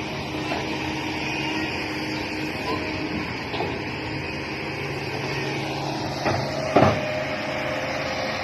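Radio-controlled model excavator's motors whirring steadily, with a few clicks and a louder knock about seven seconds in.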